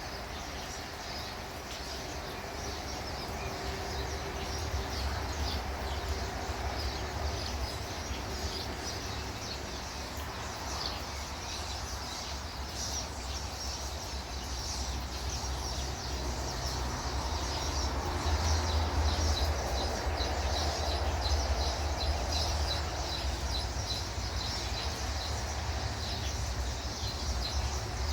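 Small birds chirping over a steady outdoor background hiss and low rumble, the chirping getting busier about halfway through.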